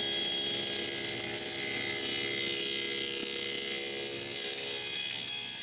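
Table saw with a dado blade stack running, cutting a deep groove across the end of a vertically held drawer front, with a steady high-pitched whine.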